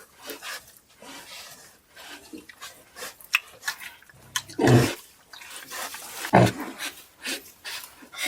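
Pigs grunting and squealing in short, irregular calls, with two loud ones about four and a half and six and a half seconds in.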